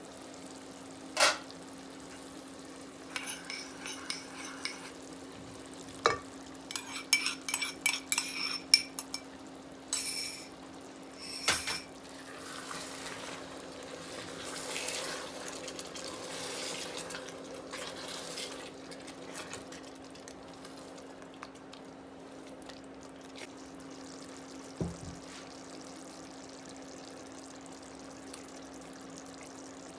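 Kitchen utensils and dishes clinking and clattering in irregular knocks, some ringing briefly, then several seconds of soft rushing noise, over a steady low hum.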